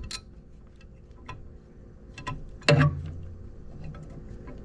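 Scattered light metallic clicks and taps of bolts and hand tools being handled in the engine bay, with one louder knock a bit past halfway.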